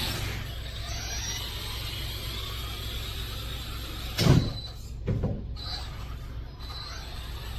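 Hyper Go H14BM V3 1/14 brushless RC truck running, with a steady low rumble and two heavy thumps about four and five seconds in.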